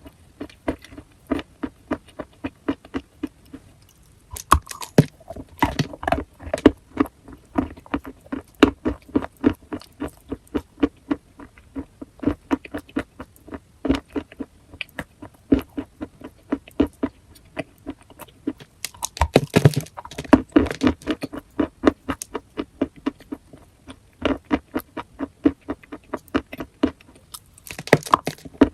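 A person crunching chalk with the teeth, close to the microphone: sharp crunches several times a second, with denser, louder bursts of biting about five seconds in, around twenty seconds in, and near the end.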